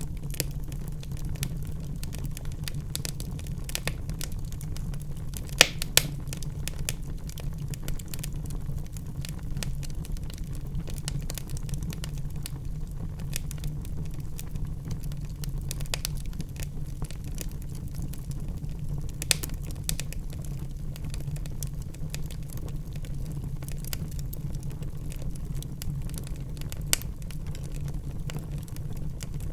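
Wood fire crackling in a fireplace: frequent sharp pops and snaps over a steady low rumble, with two louder pops about six seconds in.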